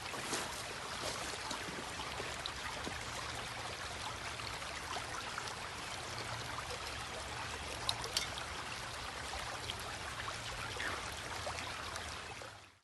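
Shallow creek water flowing and trickling over rocks in a steady hiss, with a couple of faint clicks about eight seconds in; it fades out just before the end.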